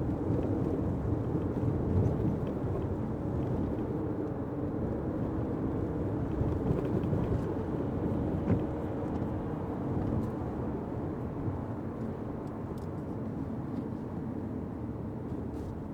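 Fiat 500X running on the road in the rain, heard from inside the cabin: steady engine and tyre noise with a low hum and a few faint ticks, one sharper click about halfway through. The noise eases slightly toward the end.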